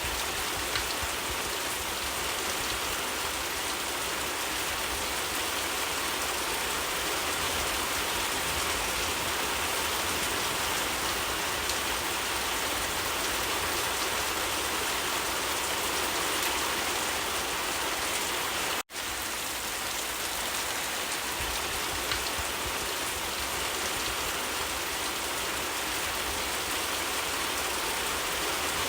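Steady, heavy rain falling as an even hiss. It cuts out for an instant about two-thirds of the way through.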